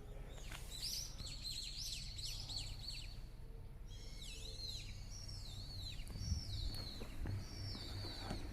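Birds calling: a quick run of high chirps starting about half a second in, then a string of repeated arching high notes from about four seconds on, over a steady low background rumble.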